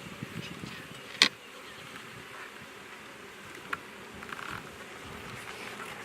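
Honey bees buzzing around an open hive, with a sharp click about a second in and a fainter click a little past the middle.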